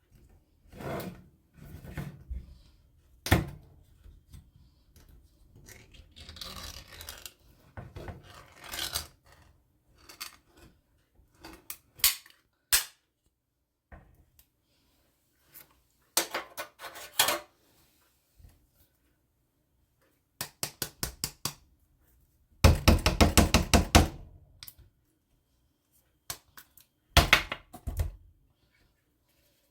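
Kitchen handling sounds while a meal is being prepared: a pot, dishes and utensils knocked and set down, with a stretch of rustling several seconds in. Near the end come a quick run of clicks and then a short, dense rattle.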